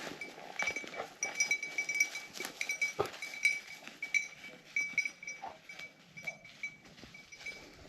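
Small bell on a hunting dog's collar jingling over and over as the dog moves about, ringing in short irregular bursts, with some soft rustling from the brush.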